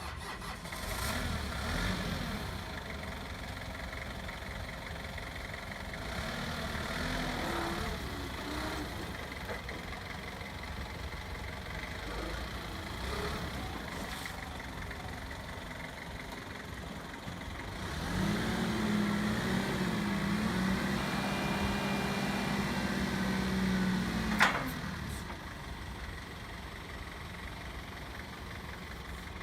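Sumitomo 3-ton forklift's engine idling. It revs up briefly, then holds a higher, louder steady speed for about six seconds, drops back with a sharp click, and returns to idle.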